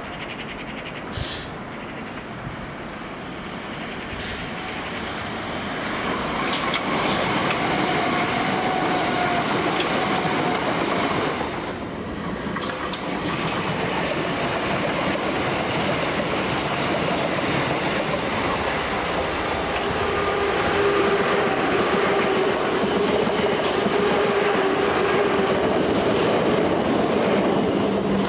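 Electric passenger trains running on the rails, with steady wheel-on-rail running noise. It builds about six seconds in, drops briefly near twelve seconds, then holds loud, with a steady whine in the later part.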